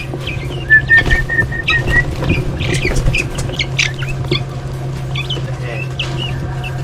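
Young guinea fowl chirping and peeping in short high calls, with a quick run of even peeps about a second in, over a steady low hum.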